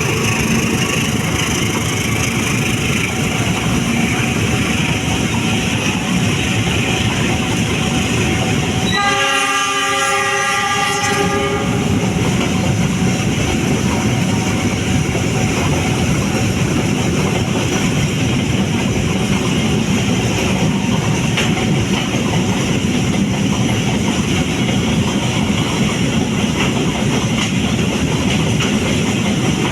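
Flat-wagon freight train running through a station without stopping: steady rumble and clatter of wheels on rail joints. About nine seconds in, the locomotive's horn sounds for about three seconds.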